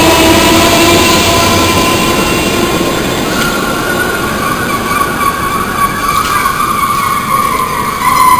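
Electric multiple-unit passenger train running past at speed: a loud rush of wheels on rail with whining tones that fall in pitch as it goes by. Through the second half a high whine rises in pitch and grows louder.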